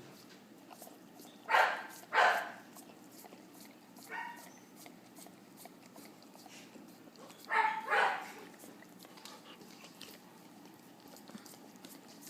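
Dog barking in short pairs, twice about half a second apart, once about a second and a half in and again past the middle, with a fainter, higher yip in between.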